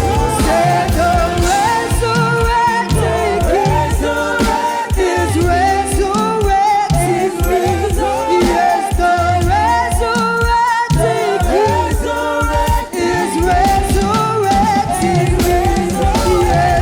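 Gospel praise-and-worship singing: a group of voices singing together over live band accompaniment with a steady beat.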